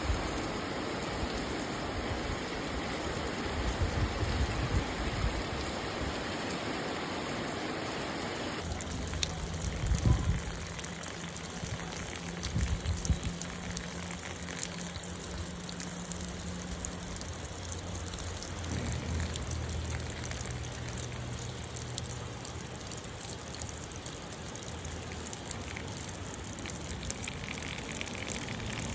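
Rain falling, with water trickling and running. The sound changes abruptly about nine seconds in, after which a low steady hum sits underneath.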